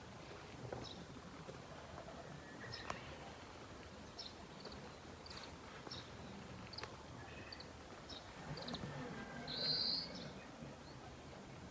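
Wild birds calling: scattered short, high chirps, with one louder brief trill about ten seconds in, over faint background noise.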